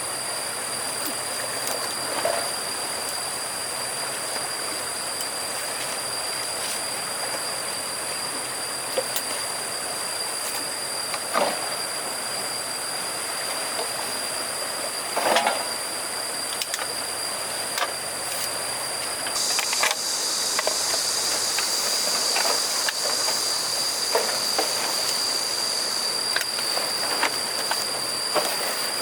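Insects buzzing steadily in a high, thin drone that grows louder about two-thirds of the way through, with scattered short knocks and clatters, the loudest about halfway.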